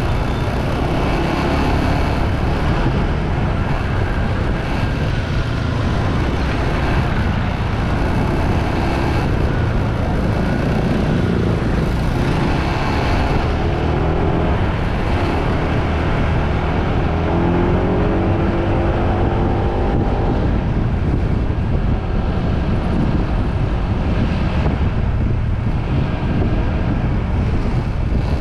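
A motorbike ridden at speed: strong wind buffeting the microphone, with the engine's pitch rising and falling as the rider speeds up and slows.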